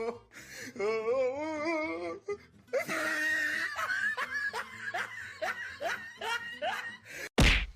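A person laughing hard in a run of short, falling "ha"s, after a wavering, drawn-out voice-like sound near the start. A brief, loud burst of noise cuts in near the end.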